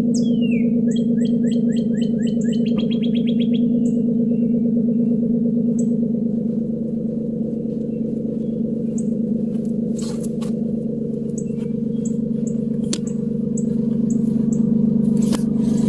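2011 Nissan Maxima's 3.5 L VQ35DE V6 idling through a custom exhaust with a muffler delete, a 3-inch glass pack in place of the stock resonator and quad tips: a steady, fairly noisy low drone. Birds chirp high above it, with a quick trill in the first few seconds and scattered single chirps after.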